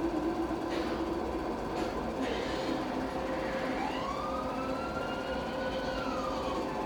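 Emergency vehicle siren wailing: a slow rising tone, held, then falling away near the end before rising again.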